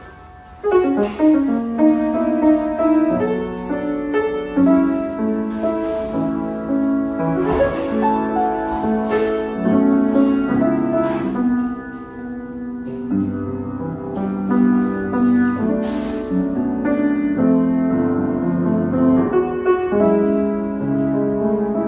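Solo acoustic piano playing: a melody over full chords. After a quieter moment it comes in strongly under a second in.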